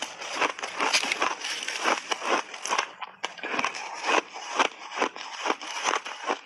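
Big chunks of crunchy refrozen buckwheat ice being bitten and chewed: a dense, irregular run of sharp crackling crunches, several a second.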